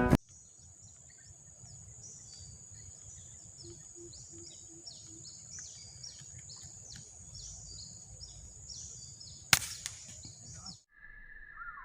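Outdoor ambience of a steady high-pitched drone and birds chirping, broken about nine and a half seconds in by a single sharp crack of an air-rifle shot.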